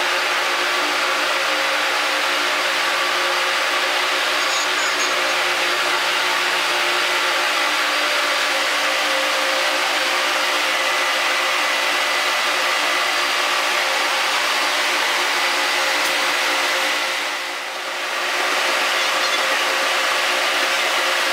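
A train running steadily, with a continuous noise and several steady tones, played back at double speed. The level dips briefly near the end, then returns.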